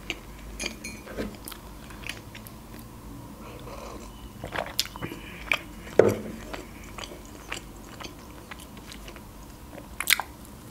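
Close-miked chewing of a soft frosted cinnamon roll: wet mouth clicks and lip smacks, with a louder bite into the pastry about ten seconds in.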